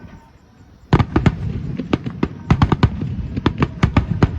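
Fireworks going off: after a quieter first second, a sudden run of many sharp bangs and crackles in quick, irregular succession.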